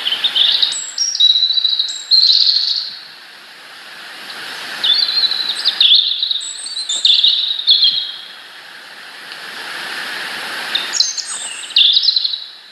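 A songbird singing three short phrases of high, quickly changing notes, each about two to three seconds long with pauses between, over a steady background hiss.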